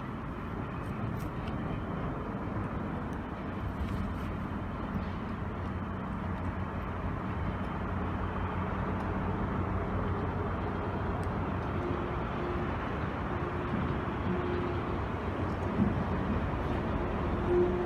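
Train running at a station with a steady low rumble and hum. From about twelve seconds in, a higher whine comes and goes.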